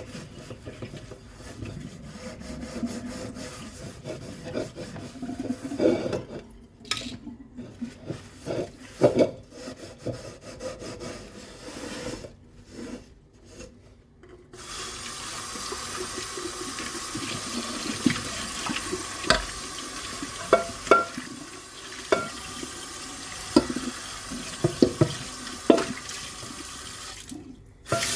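Dishes being handled and scrubbed in a kitchen sink with scattered knocks and rubbing. About halfway through the tap is turned on and water runs steadily, with sharp clinks of dishware over it, stopping briefly near the end before running louder again.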